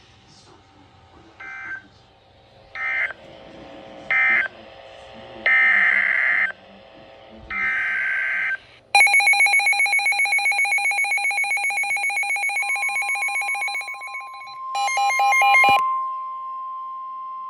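NOAA Weather Radio alert signalling between two readings of a severe thunderstorm warning. First come several short raspy digital data buzzes, then a loud, rapidly pulsing electronic alarm tone for about five seconds. It ends in a brief warbling burst, while a steady tone carries on to the end.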